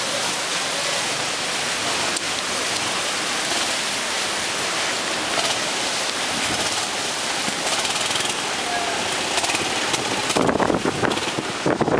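Tropical-storm winds of close to 50 mph blowing, a steady rushing hiss. About ten seconds in, gusts begin buffeting the microphone, turning the sound uneven and rumbling.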